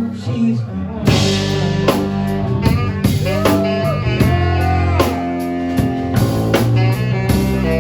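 Live rock band playing an instrumental passage: drum kit hits over a bass line, with guitar and a few held notes that bend in pitch about halfway through.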